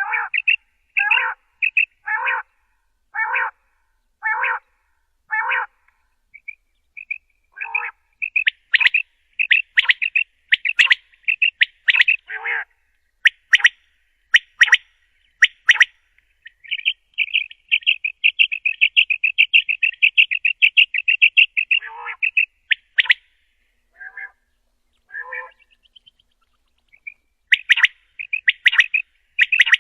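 Common quail calling: short, clear call notes repeated about once a second, then a quicker, denser run of calls, and a fast rapid series of notes in the middle lasting a few seconds.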